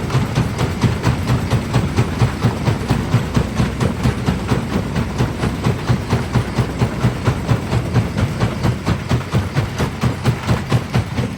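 Large primary jaw crusher running as it breaks stone, with a steady, low, rhythmic pounding of about four strokes a second.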